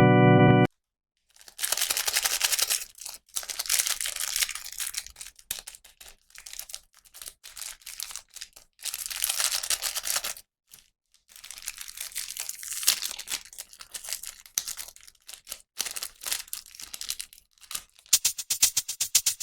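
Plastic packaging being crinkled and torn open by hand, in irregular bursts with short pauses. About 18 s in, music with a shaker-like rhythm begins.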